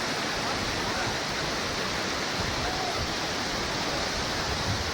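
Flash-flood water rushing down a wadi: a steady, unbroken roar of torrent noise.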